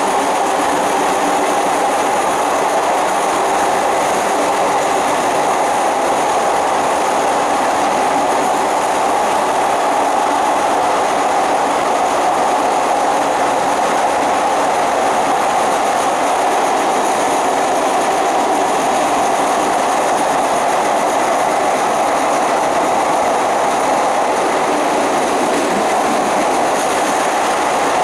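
Inside a moving Thai ordinary passenger train car: the steady running noise of the train's wheels on the rails, even and unbroken throughout.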